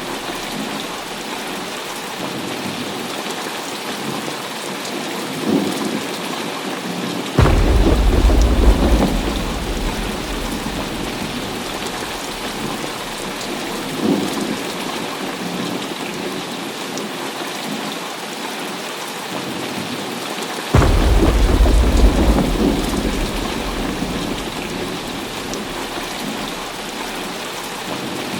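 Heavy rain falling steadily through a thunderstorm. Two sudden loud thunderclaps come about 7 and 21 seconds in, each rumbling away over a few seconds, with two fainter thumps of thunder between them.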